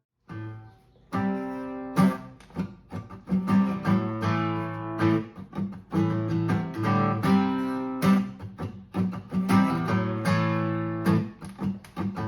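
Acoustic guitar playing an instrumental passage of repeated strummed and plucked chords, starting just after the beginning.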